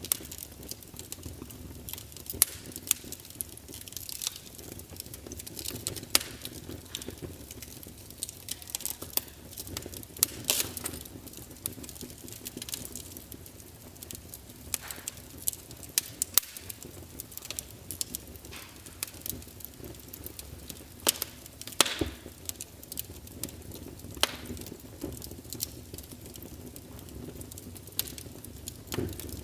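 Wood fire burning with irregular sharp crackles and pops over a low steady hiss of flames.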